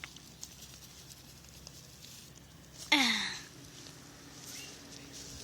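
Faint background hiss with small ticks, and about three seconds in a short, breathy human voice sound falling in pitch, like a sigh.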